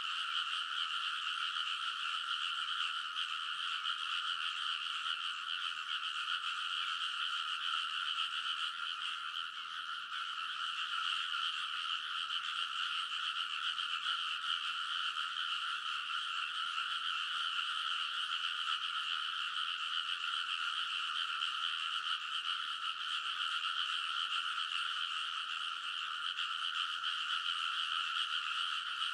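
A large chorus of frogs calling all at once, a dense, unbroken din with no single caller standing out.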